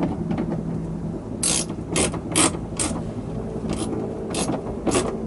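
A series of seven sharp mechanical clicks, spaced about half a second apart, over a steady low hum.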